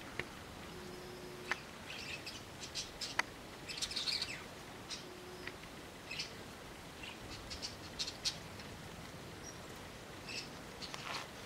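Small birds chirping in short, high, scattered calls, busiest about four seconds in, with a couple of sharp clicks early on.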